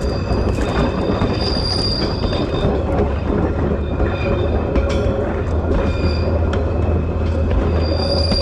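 2000 class railmotor running along the track: a steady low rumble with high-pitched wheel squeal coming and going, and scattered clicks from the rails.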